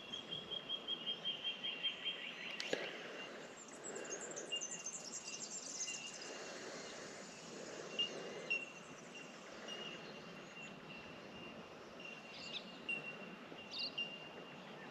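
Bell miners (bellbirds) calling: a chorus of short, high, bell-like notes repeated at one pitch. Other small birds give rapid descending trills in the first few seconds.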